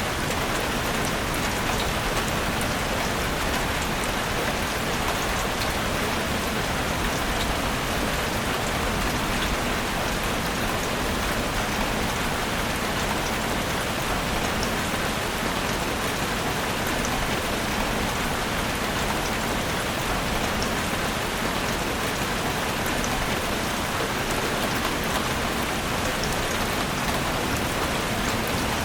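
Steady rain falling in a forest, an even wash of drops pattering on leaves and ground with no breaks or thunder.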